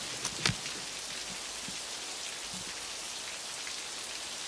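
Steady, heavy rain falling, with one sharp knock about half a second in.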